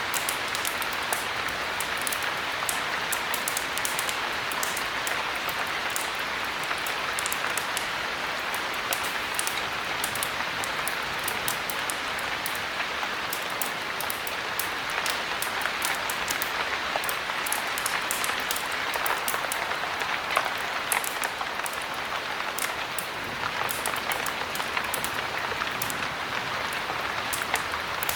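Heavy rain falling steadily, an even hiss with many small sharp crackles and ticks scattered through it.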